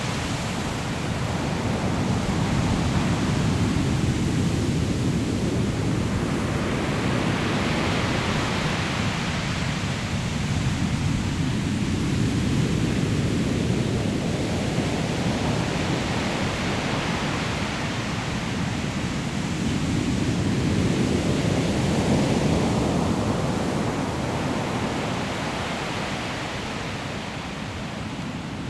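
Waves breaking and washing over a pebble shore: a steady rush of surf, with the hiss of water running through the stones swelling and fading three times.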